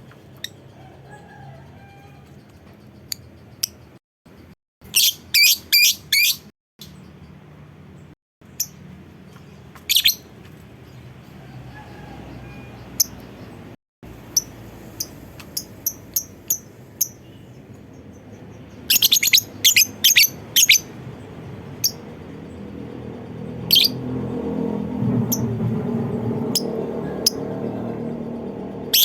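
Lovebird calling: short, sharp high chirps, some single and some in quick runs of five or six, the rapid chatter that keepers call ngekek. A low background rumble swells in the last few seconds.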